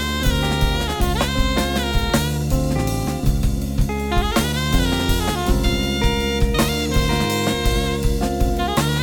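Instrumental jazz played by a quartet of alto saxophone, electric guitar, electric bass and drum kit, the alto saxophone carrying melodic lines that bend in pitch over steady drum hits.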